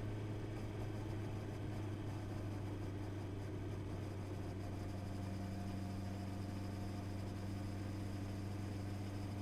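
Honda CB650R's inline-four engine running at steady revs, an even drone with no change in loudness, its note shifting slightly about halfway through.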